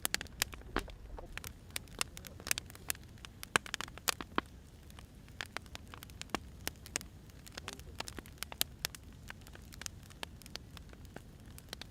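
Burning firewood crackling, with irregular sharp pops and snaps over a low steady hiss.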